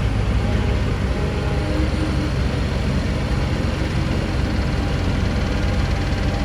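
Heavy diesel engine of earthmoving machinery running steadily, with most of its sound low and even throughout.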